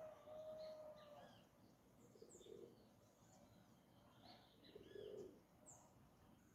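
Faint birdsong from several birds: scattered short high chirps and whistles. A held whistled note runs for about a second at the start, and two short low calls come about two and a half and five seconds in.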